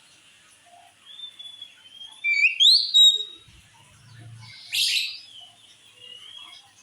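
Oriental magpie-robin singing: a string of clear whistled notes that slide up and down, loudest as quick rising whistles about two to three seconds in, then a harsh scratchy note near five seconds and a softer whistle near the end.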